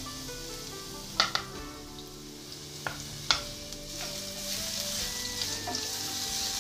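Minced garlic and ginger sizzling in hot oil in a nonstick frying pan, with a few sharp clicks in the first half. A wooden spatula then stirs them, and the sizzle grows louder toward the end.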